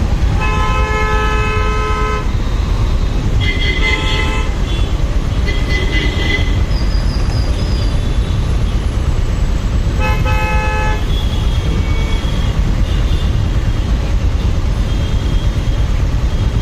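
Vehicle horns honking in city traffic over a steady low rumble of wind and engine from a moving motorcycle: a long honk about half a second in, a short one about four seconds in with higher-pitched beeps just after, and another honk about ten seconds in.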